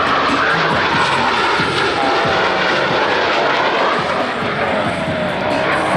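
Boeing F/A-18 Super Hornet jets flying overhead, a loud, steady rushing jet noise.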